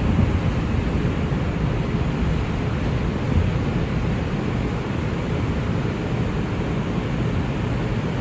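Steady rumble and running noise inside an R142 subway car as it comes into a station.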